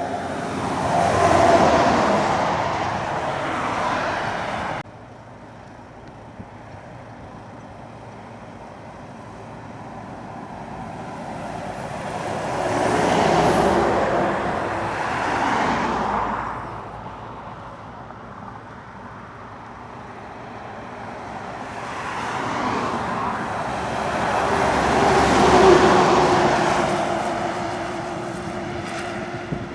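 Heavy lorries pulling hard up a steep climb, passing one after another: three engine-and-tyre pass-bys, each swelling and fading. The first is cut off abruptly about five seconds in.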